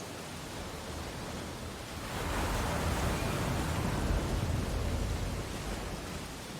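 Ocean surf on a beach: a steady wash of waves, with one wave swelling about two seconds in, loudest around four seconds, then drawing back and fading.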